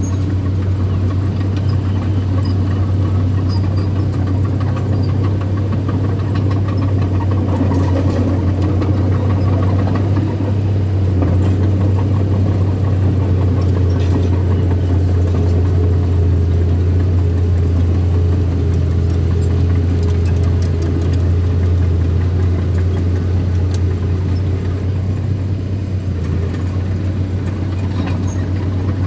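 Heavy machinery engine running steadily with a low, even drone, typical of a small bulldozer working soil.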